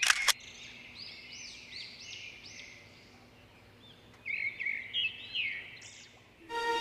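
Bird calling in repeated short arching chirps, a quieter run followed by a louder one about four seconds in. A brief double click at the very start.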